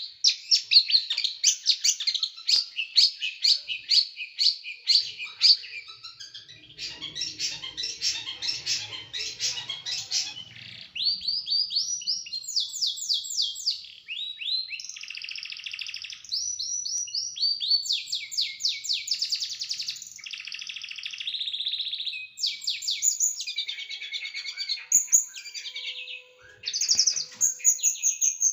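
Small songbird singing high-pitched, fast strings of sharp notes and runs of quick rising sweeps with almost no break: the rapid-fire 'tembakan' phrases used as a tutoring song for caged songbirds.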